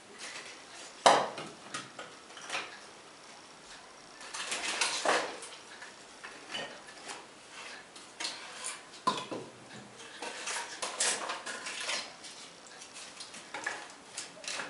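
Irregular knocks and clinks of firewood and fireplace hardware being handled as the fire is laid, with one sharp knock about a second in and bursts of clatter later.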